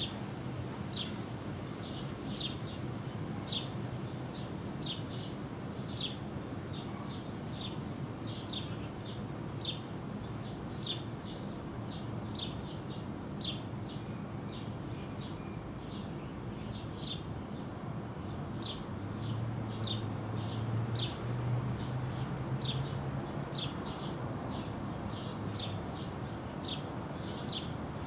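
A small bird chirping over and over, short high chirps about twice a second, over steady outdoor background noise; a low hum swells for a few seconds past the middle.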